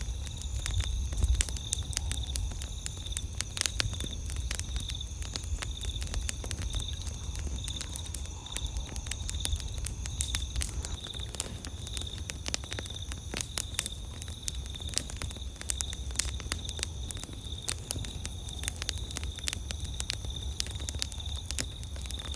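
Campfire burning, with wood crackling in frequent sharp irregular pops and a low rumble underneath. Steady high insect chirping runs behind it.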